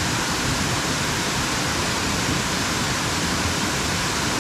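Waterfall's steady rush of falling water into a plunge pool, an even, unbroken hiss.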